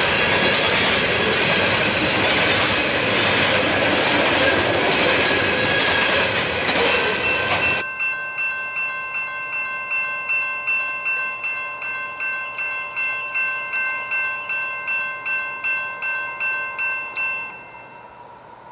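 Loaded coal hopper cars rolling past close by, a loud steady rolling noise of wheels on rail. About eight seconds in it gives way to a grade-crossing bell ringing about twice a second, which stops shortly before the end.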